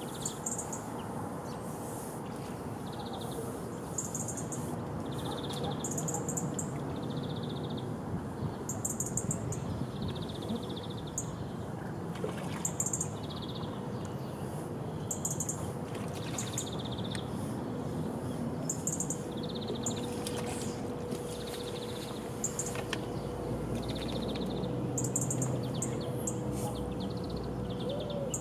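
A small bird calling over and over in short, high chirps about every second, over a steady outdoor background with a faint constant hum.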